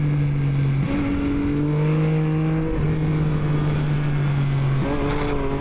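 Yamaha FZ-09 motorcycle's inline-three engine running under way with rushing wind noise. The engine note holds steady and steps to a new pitch several times as the revs change.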